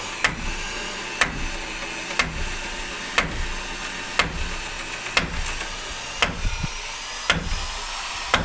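Hammer blows on wood about once a second, a steady run of nine strikes, driving wooden pegs into timber-frame joints. A steady hum runs underneath.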